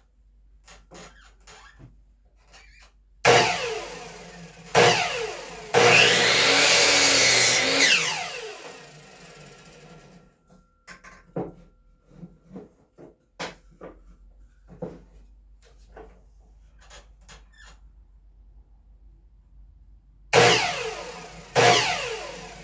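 Electric saw cutting 2x4 lumber: the motor is triggered in two short bursts, then runs loud through a cut of about two seconds and winds down. Small knocks of wood being handled follow, and two more short saw bursts come near the end.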